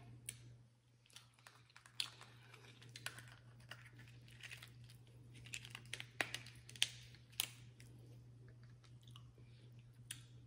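Close-miked chewing of seafood-boil food, with irregular sharp mouth clicks and smacks, a few louder ones past the middle, over a steady low hum.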